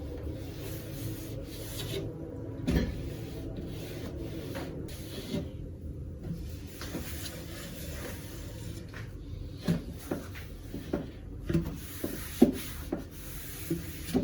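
Glasses and other kitchenware being handled and set down in a kitchen cupboard, with rubbing and scattered knocks that come more often in the second half, over a low steady hum.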